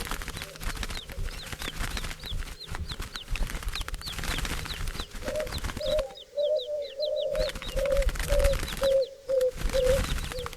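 A flock of birds: quick high chirps sweeping downward throughout, and from about halfway a dove's low purring coo repeated about twice a second, amid fluttering wings.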